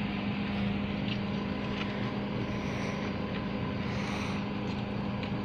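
A vehicle engine running steadily at an even pitch, with no revving, over a background of outdoor noise and a few faint ticks.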